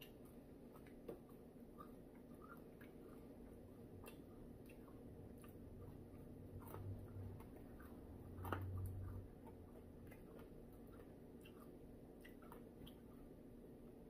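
Faint chewing of crispy fried chicken with the mouth close to the microphone, scattered soft crunches and small mouth clicks, and a short low muffled sound a little past the middle.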